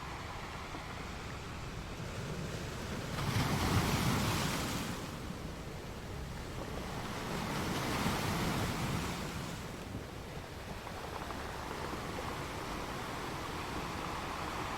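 Sea waves breaking against rocks: a steady wash of surf with two louder surges, one about three seconds in and a longer one about seven seconds in, with some wind on the microphone.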